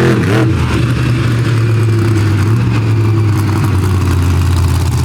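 Carolina Crusher monster truck's engine running hard, a loud steady drone with small shifts in pitch as the throttle is worked.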